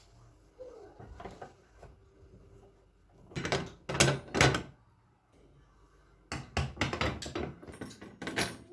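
Kitchen clatter: sharp knocks of cupboard doors, drawers and things being handled and set down, in two bursts, one about three and a half seconds in and a longer one from about six seconds in.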